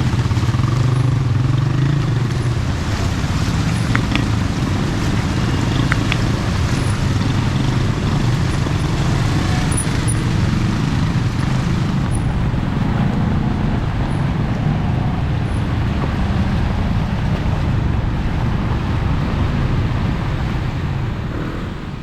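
Steady street noise with a low rumble like passing traffic, fading out near the end.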